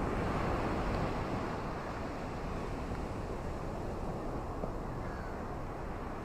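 Ocean waves washing onto a shore, a steady rushing surf, slightly louder in the first second and then easing to an even level.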